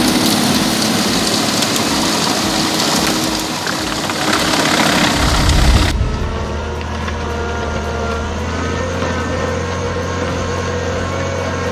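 Heavy machinery engine running loud with dense mechanical noise. About six seconds in it cuts abruptly to a steadier engine sound with a low hum.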